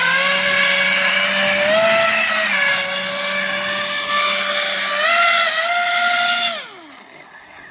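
RC airboat's brushless electric motor driving a three-bladed air propeller, running with a steady high whine. The pitch rises briefly twice as the throttle is raised. The whine falls away and stops near the end as the throttle is cut.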